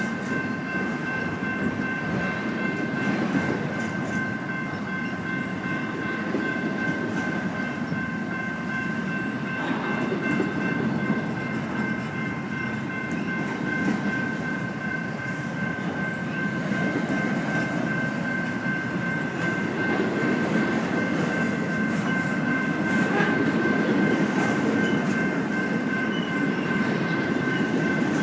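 A train rolling past steadily: a continuous rumble of wheels on rail, with a faint steady high ringing held over it.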